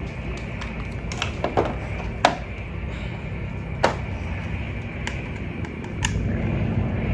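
Scattered sharp clicks and taps of a plastic toy and its packaging being handled, over a steady low hum that gets louder about six seconds in.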